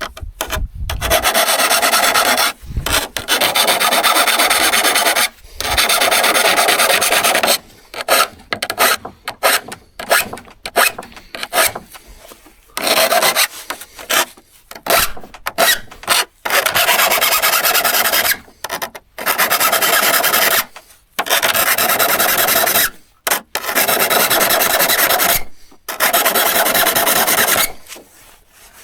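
Rasping hand strokes of abrasive or file on a steel hand-saw blade, mostly long strokes of about two seconds each with short pauses, and a run of shorter, choppier strokes in the middle.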